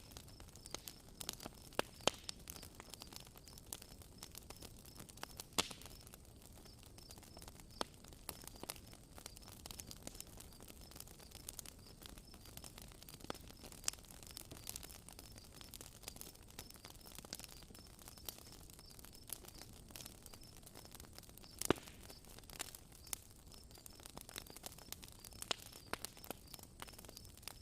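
Campfire crackling, with irregular small pops and a few sharper snaps, the loudest about two seconds in, near six seconds and about twenty-two seconds in. A faint, high, evenly pulsing chirp runs behind it.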